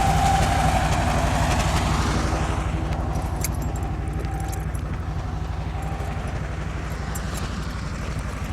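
1948 John Deere B's two-cylinder engine working hard under a heavy plowing load, with a steady rapid low beat. A high whine fades out within the first two seconds, and the whole sound slowly gets fainter.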